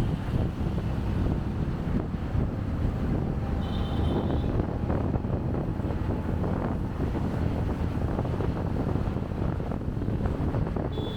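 Wind buffeting the microphone of a chest-mounted camera on a moving motorcycle, over a steady low rumble of the bike and traffic. A short high beep sounds about four seconds in.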